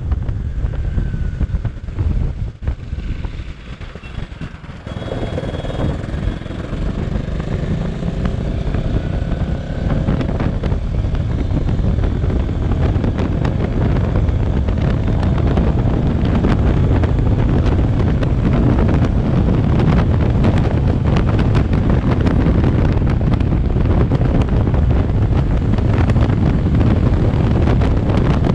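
Bajaj Pulsar NS200 single-cylinder motorcycle riding on the road, with engine rumble and heavy wind buffeting on the camera microphone. It dips briefly a few seconds in, then grows louder and holds steady as the bike picks up speed.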